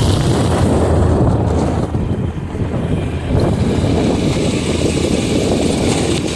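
Wind buffeting the microphone over the rumble of a motorcycle riding along a rough dirt road, a steady noisy roar with no clear engine note.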